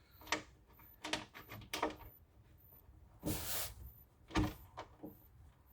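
Light clicks and knocks of the diesel heater's fuel tank fitting being handled and fitted with its rubber seal, with a short scrape about three seconds in.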